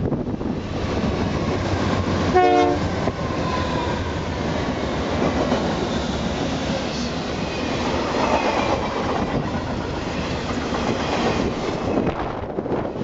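BNSF intermodal freight train led by five GE diesel locomotives passing close by, engines running and steel wheels rolling on the rails, followed by the container cars. About two and a half seconds in there is a short blast of the air horn.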